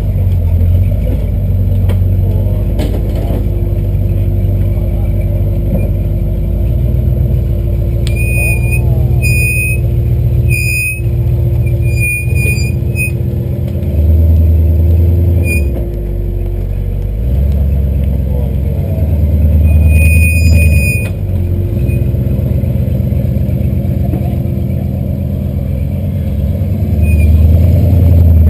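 Jeep CJ7's V8 engine running under load off-road, its revs rising and falling several times. Short high squeaks come in a run near the middle and once more later on.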